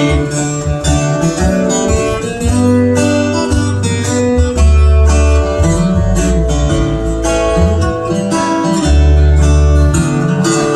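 Instrumental break of a country-flavoured gospel song: strummed acoustic guitar over a steady bass line, with no singing.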